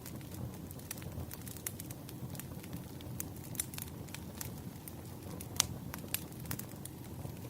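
Bonfire crackling: scattered sharp pops and snaps over a low, steady rumble of burning wood, with one louder pop a little past halfway.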